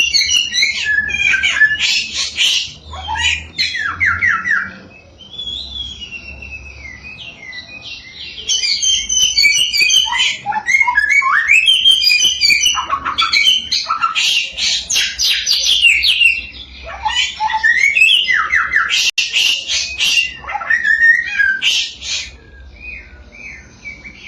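A caged samyong songbird singing a fast, varied song of whistles, rapid trills and squawky notes in loud bouts, with a brief quieter pause about five seconds in.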